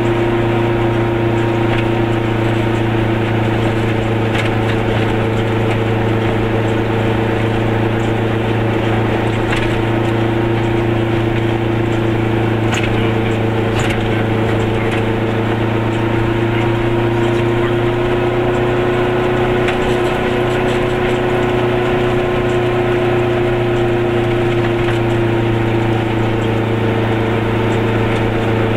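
Goggomobil's air-cooled two-stroke twin engine running at a steady cruise, heard from inside the small car's cabin. The engine note rises slightly and settles back about two-thirds of the way through, with a few faint clicks over it.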